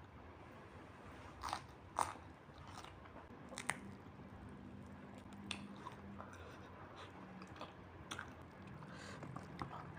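Close-up eating sounds of a grilled mackerel tuna head: biting and chewing, with sharp crunches and clicks, the loudest between one and four seconds in. A low steady hum runs from about three and a half to seven and a half seconds.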